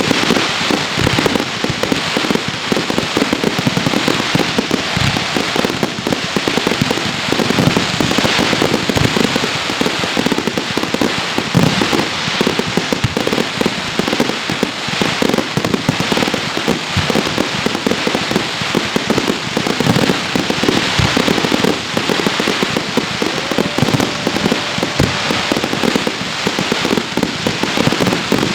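Professional fireworks display: a dense, unbroken barrage of bangs and crackling from bursting shells and firecrackers.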